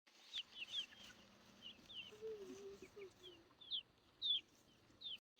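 Chickens calling softly: a string of short, high, falling chirps, and a low wavering call about two seconds in.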